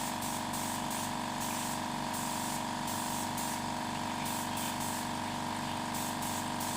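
Paint spraying in short repeated hissing spurts over a steady machine hum.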